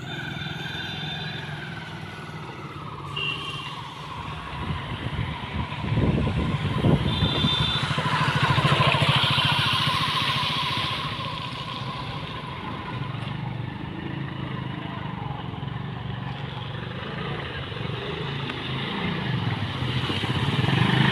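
A motor vehicle engine running steadily, with a louder rush of noise swelling from about six seconds in and fading after about eleven seconds.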